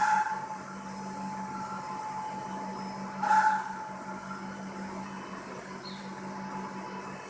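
Robotic vacuum cleaner running with a steady hum, broken by a short, loud sound at the start and another about three and a half seconds in.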